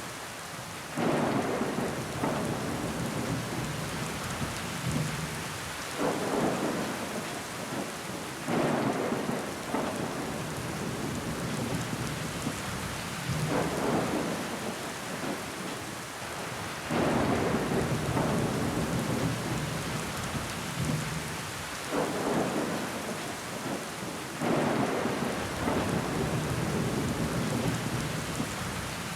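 Steady rain pattering on a window pane, with water running down the glass. About every three to five seconds the sound swells suddenly into a louder surge, then fades back.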